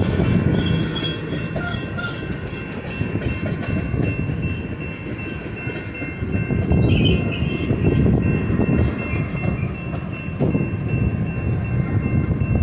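Freight train cars rolling past on the mainline: a steady, loud rumble of wheels on rail that swells and eases, with a thin steady high whine over it.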